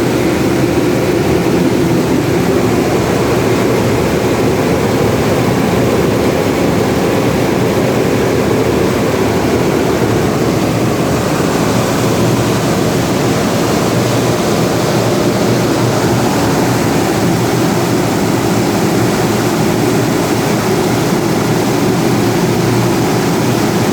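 Power generator's engine running steadily at constant speed, loud and even throughout.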